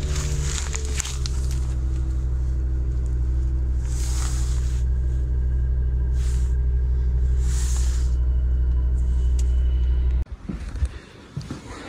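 A car engine running steadily just after a cold start in about −38 °C frost, heard from inside the cabin, its note settling slightly about a second in, with a few brief hisses over it. Near the end it cuts off abruptly, leaving faint irregular sounds.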